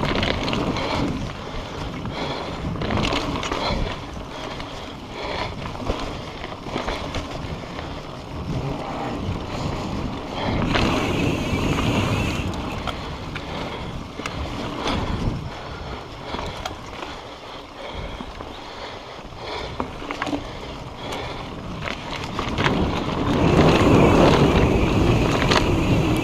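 Wind rushing over the camera microphone while riding a mountain bike, with scattered clicks and rattles from the bike over the ground. The rush swells about eleven seconds in and again near the end.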